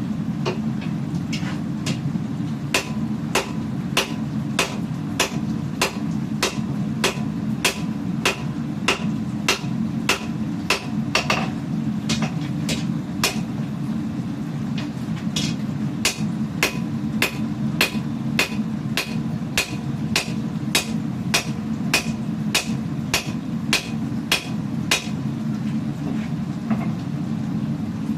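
Hammer blows on hot steel while forging a katana blade, about two strikes a second, stopping near the end. A steady low rumble runs underneath.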